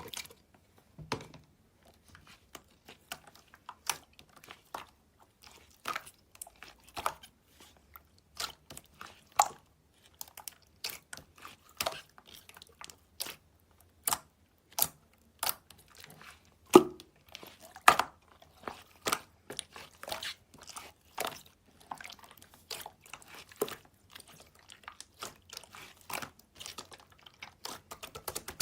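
Slime with shell-shaped charms mixed in being pressed and worked by hand: irregular sharp clicks and pops, about one or two a second.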